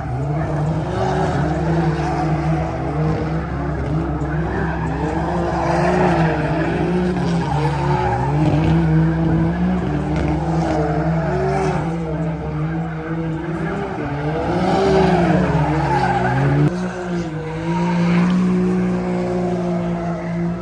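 Pickup truck doing a burnout: the engine is held at high revs while the tyres spin and squeal, the squeal wavering up and down in pitch. The engine note shifts about three-quarters of the way through.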